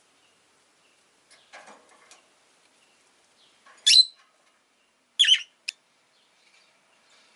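Rosy-faced lovebird giving short, sharp, high chirps: a loud one about four seconds in, then two more about a second later, after a few fainter sounds near two seconds in.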